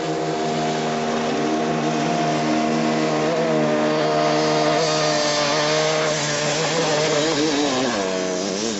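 Dirt bike engine held at high revs as the bike skims across a river, growing louder, its pitch wavering up and down in the second half and dropping near the end.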